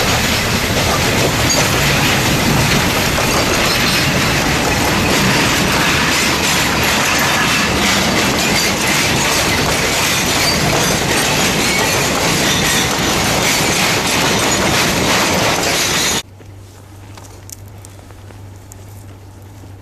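A narrow-gauge coal train rolling past close by, its wheels clattering and squealing on the rails in a loud, continuous rush. It cuts off suddenly about sixteen seconds in, leaving only a quieter low hum.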